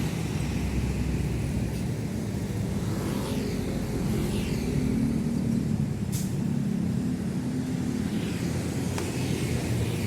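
Heavy road traffic passing close by: the engine hum and tyre noise of a large vehicle swell in the middle of the stretch and then fade, with a single short tick a little after that.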